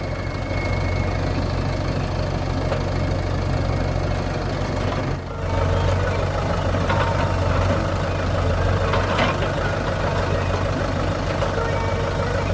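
Tractor diesel engine running steadily with a low hum, with a brief dip in level about five seconds in.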